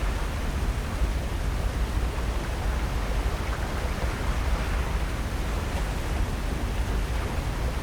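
Steady rushing noise of coastal wind and surf, with a deep rumble underneath.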